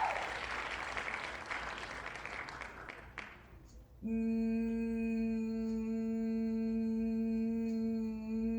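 A fading hiss for the first three seconds, then a person humming one long, steady note, starting about four seconds in.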